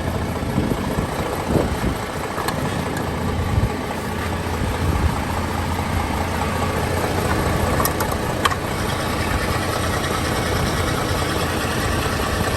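Isuzu 6UZ1 inline-six diesel engine idling steadily, checked at the open oil filler for blow-by smoke. A couple of light clicks about eight seconds in.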